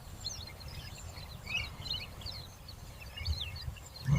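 Small birds chirping and twittering in quick, overlapping calls, over a steady low rumble.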